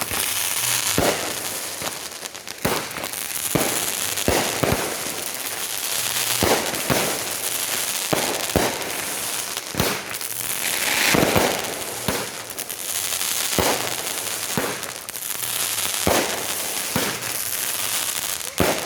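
Fireworks going off in quick succession: sharp bangs about twice a second over a steady crackling hiss.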